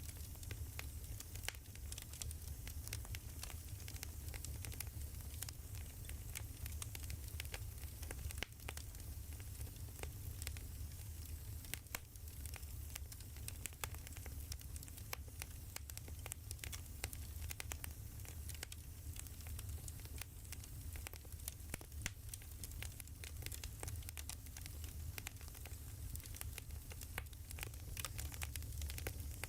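Burning firewood crackling, with frequent irregular pops and snaps over a steady low rumble.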